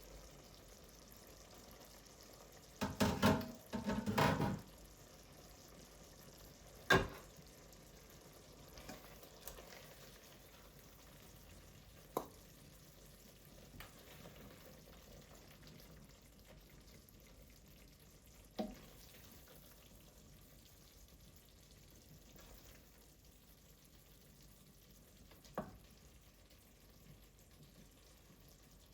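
Kitchen work sounds: two short bursts of clatter about three and four seconds in, then a few single knocks spread out over a faint steady hiss.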